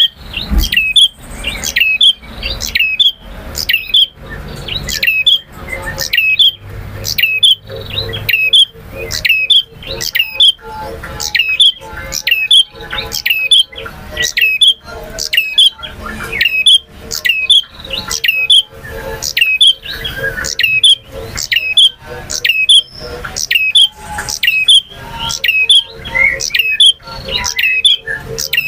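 Male prenjak (a small prinia songbird) calling continuously: loud, rapid, sharp high chirps delivered in runs about a second long, one after another without a break.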